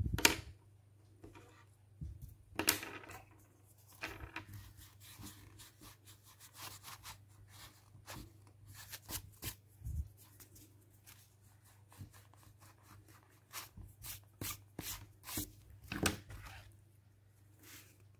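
Drawing on paper: a long run of short scratching strokes and rustles, with a few sharper knocks near the start, about three seconds in and near the end. A faint steady hum sits underneath.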